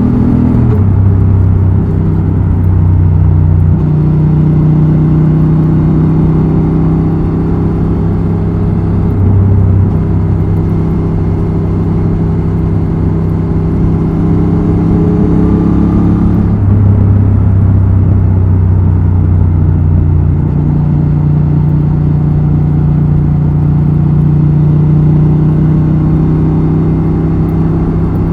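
Honda Transalp XL750's parallel-twin engine and exhaust under way, running steadily with its pitch stepping up and down a few times as the throttle and gears change.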